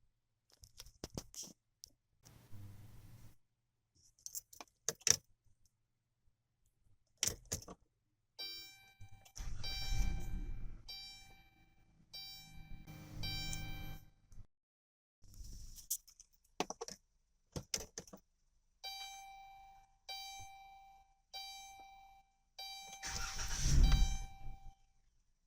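Keys jangling and clicking at the ignition of a 2011 Dodge Grand Caravan, then repeating dashboard chimes while the engine is cranked in short tries, the loudest try near the end. The van has a fault that stops it starting or staying running.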